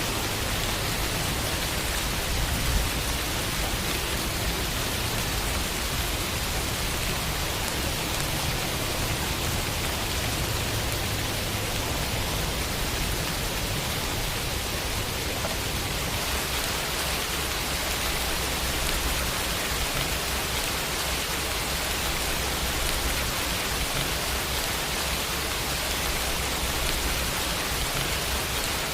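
Steady rain falling and pattering on a window, an even hiss with a low rumble underneath.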